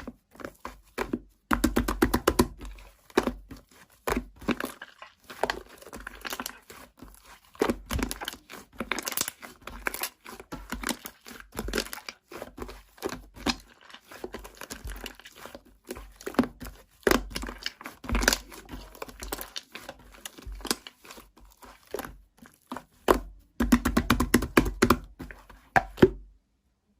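Dense, irregular crinkling and crackling of material handled close to the microphone, with occasional low thumps. It stops suddenly just before the end.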